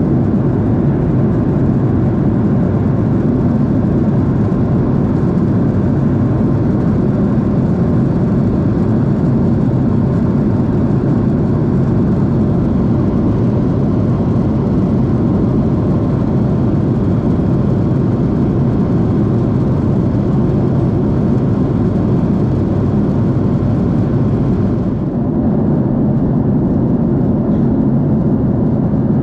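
Boeing 767 cabin noise: a steady, loud drone of the jet engines and rushing air, with a slight change in tone about 25 seconds in.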